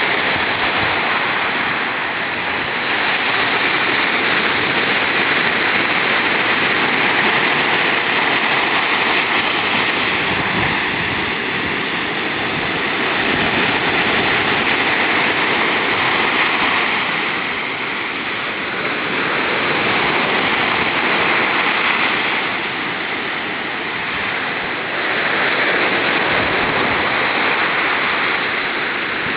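Ocean surf breaking on the shore: a continuous rush of water noise that swells and eases every several seconds as the waves come in.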